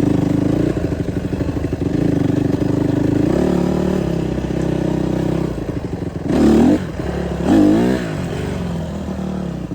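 Dirt bike engine running at steady revs, then revved twice in quick bursts a little over six and seven and a half seconds in, each rising and falling sharply and the loudest moments. The rider says just afterwards that his clutch is so bad and insanely loose.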